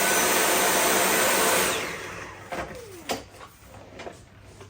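Dyson V8 Animal cordless stick vacuum running with a steady, loud whine for under two seconds, then switched off and winding down.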